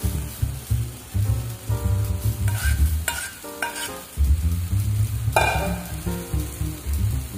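Noodles tipped from a metal pot into a sizzling wok of frying vegetables, with a metal spoon scraping them out of the pot and stirring. A sharp metal clank comes about five seconds in.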